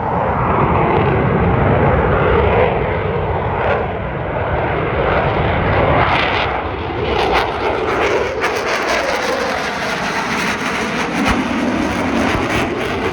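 Jet aircraft flying low past, their engines loud and continuous, with slow sweeping whooshes in the tone as they pass. From about seven seconds in, a rough crackle runs through it.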